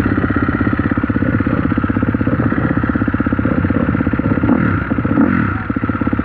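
Single-cylinder four-stroke dirt bike engine, a KTM SX-F 250, running steadily at low revs as a rapid, even train of firing pulses.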